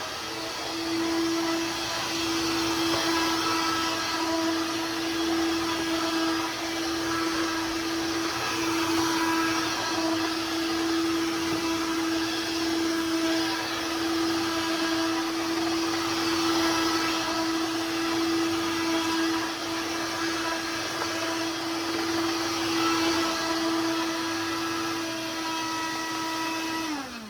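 Dirt Devil corded stick vacuum running at full speed: a steady motor whine over the rush of air. Near the end it is switched off and winds down, the whine falling in pitch.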